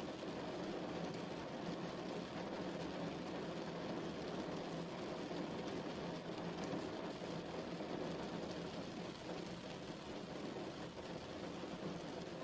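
Steady rain: an even hiss of falling water, fullest in the low-middle range, with faint fine drop ticks.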